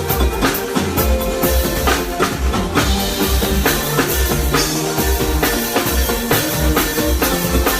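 Live band playing an instrumental groove during a sound check: a drum kit with a steady, regular kick-drum beat and snare hits over bass and keyboard lines.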